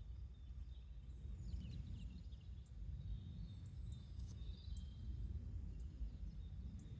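Garden ambience: a steady low rumble with faint, scattered chirps and short whistled calls of small songbirds.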